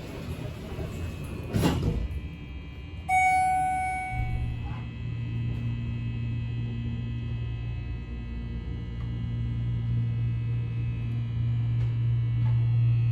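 Schindler hydraulic elevator starting to go up: a thud, likely the doors shutting, then a single chime, then the steady low hum of the hydraulic pump motor as the car rises.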